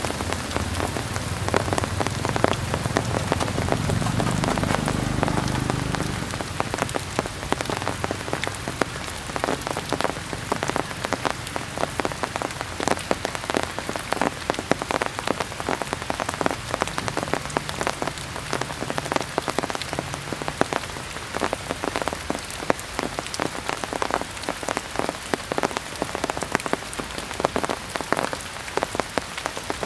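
Heavy rain falling steadily, with dense drops pattering. A low rumble sits under it for the first six seconds and then fades.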